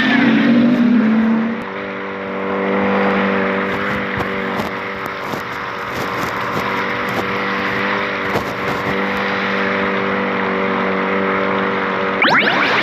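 Jet ski engine running at a steady speed over a loud rushing hiss, with a brief rise in pitch near the end.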